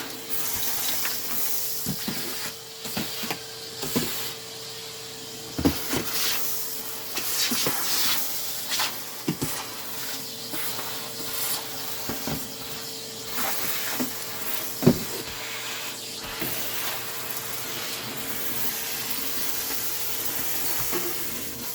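Vacuum cleaner running with a steady motor whine and hiss of air, crackling and clicking as it sucks up crumbs and bits of debris.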